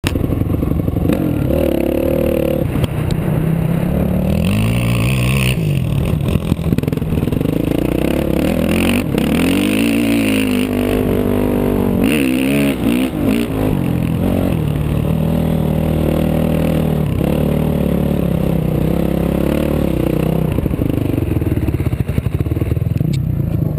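Dirt bike engine running hard on sand, its pitch repeatedly rising and falling as the throttle is opened and closed.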